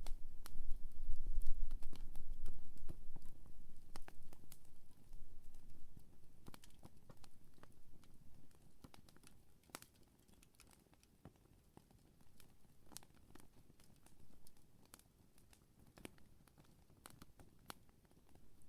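Wood fire crackling, with sharp irregular pops and snaps from the burning wood. A low rumble in the first few seconds fades out, and the fire then goes on more quietly.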